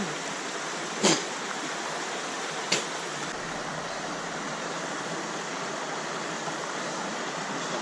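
Waterfall rushing steadily. Two short sharp knocks come through it, about a second in and again just under three seconds in.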